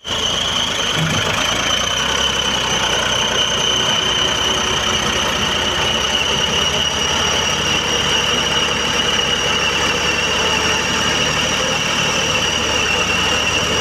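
Tractor diesel engine running steadily, with a steady high-pitched whine over it.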